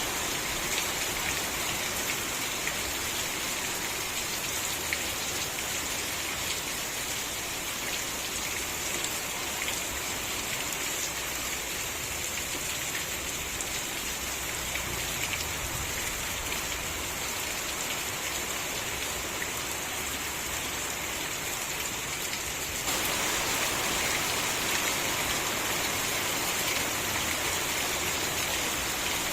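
Steady rain falling, a dense even patter of drops on surfaces. About three-quarters of the way through it suddenly gets a little louder and brighter.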